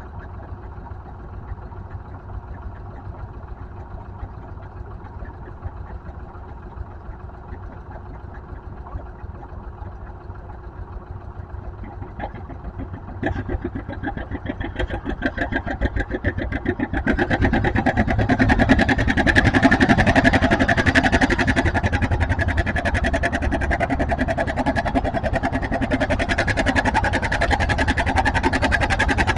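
Pulling tractor's engine: a low steady rumble for the first half, then from about halfway through it opens up and grows much louder under full load, with a fast, even exhaust beat, as the tractor pulls the sled.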